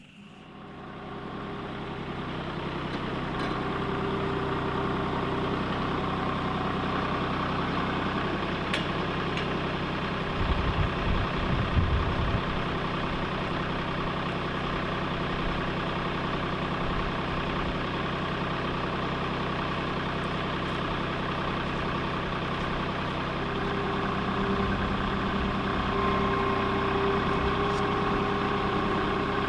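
Tractor engine running steadily, coming up over the first few seconds, with a brief louder, rougher stretch about ten seconds in.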